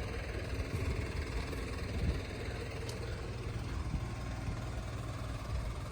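TCM diesel forklift engine idling steadily with a low, even hum.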